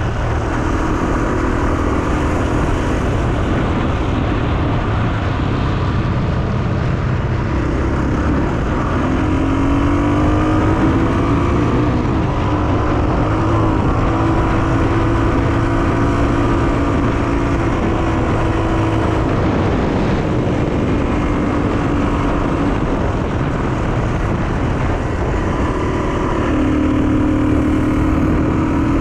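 1984 Honda XR250R's single-cylinder four-stroke engine running while riding, its pitch rising and falling in places.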